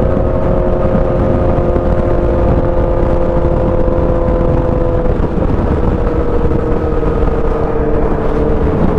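Sport motorcycle engine running steadily at high revs, its pitch easing slowly down as the throttle comes off, heard from on board over a steady rush of wind.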